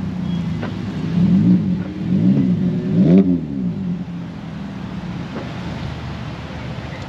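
A car engine revved in three quick blips, each a little higher and louder than the last, the pitch rising and falling back each time, then settling to a steady idle.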